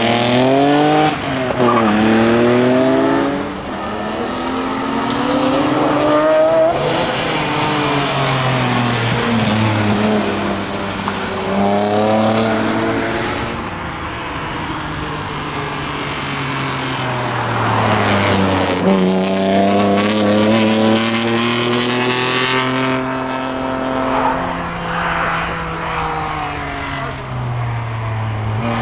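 BMW 325i's 2.5-litre straight-six driven hard on a tarmac rally stage, its pitch climbing and falling again and again as it accelerates through the gears and backs off for corners.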